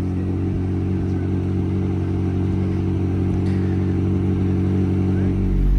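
Car engine running at steady revs while driving, an even drone with no rise or fall in pitch.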